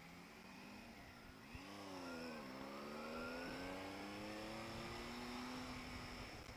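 Triumph Tiger 800 XRT's three-cylinder engine heard while riding: the note drops twice as the bike slows, then rises steadily for about four seconds as it accelerates away.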